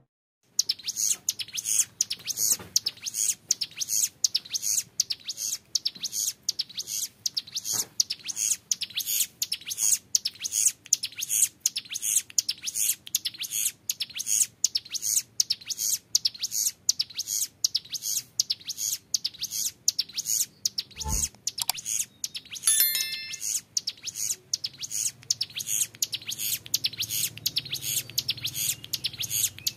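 Young male ciblek gunung, a prinia, singing a long, rapid "ngebren" song: high, sharp notes repeated many times a second with hardly a pause. A single low knock about two-thirds of the way through.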